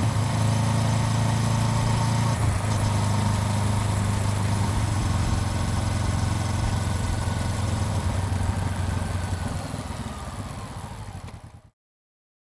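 Honda CBR400R parallel-twin engine running at a steady, even pitch with a steady hiss over it. It fades out over the last few seconds and stops dead near the end.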